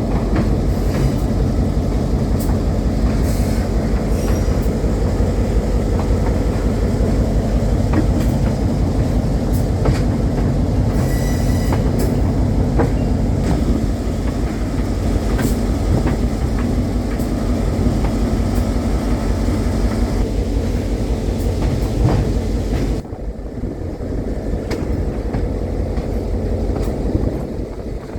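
Train rolling along the track: a steady low rumble with wheel clicks over the rail joints and a brief wheel squeal about 11 seconds in. The rumble drops noticeably about 23 seconds in.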